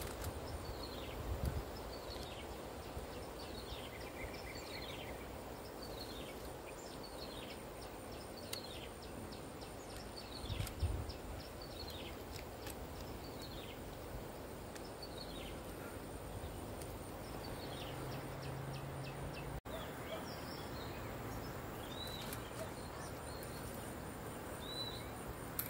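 A bird calling over and over in short falling whistles, one or two a second, over a steady outdoor hiss. The whistles fade out, and after a brief dropout about 20 s in, shorter up-and-down chirps follow. A low bump is heard near the start and again about 11 s in.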